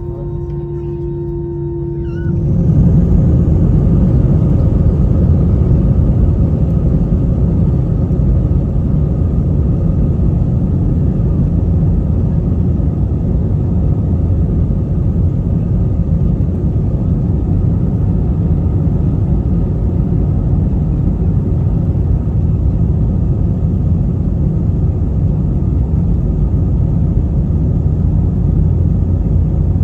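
Inside an Airbus A320-family airliner's cabin, the jet engines hum steadily with a few faint tones. About two seconds in, the sound jumps abruptly to a loud, steady, deep rumble, typical of the engines at takeoff thrust during the takeoff roll.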